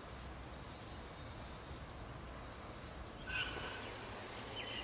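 Steady low background hiss, with a short cockatiel call about three seconds in and a faint chirp near the end.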